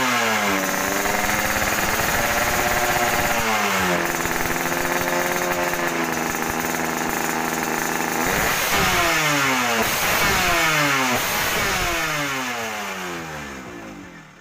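Yamaha two-stroke single-cylinder motorcycle engine revving through an underbelly racing exhaust: the pitch jumps up and slides back down over and over, holds steadier in the middle, then fades away near the end.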